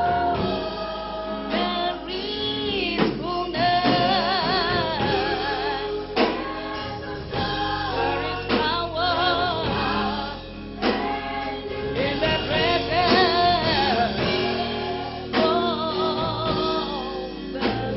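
Gospel music: voices singing with vibrato over steady instrumental chords.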